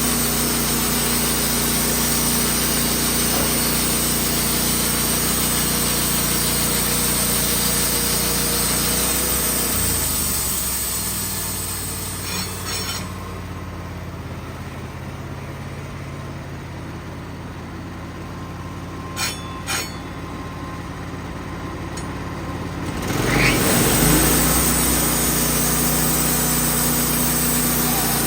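Wood-Mizer portable sawmill's engine running steadily with the band blade spinning. About ten seconds in it drops to a lower idle, with a few sharp clicks. About 23 seconds in it revs back up to full running speed.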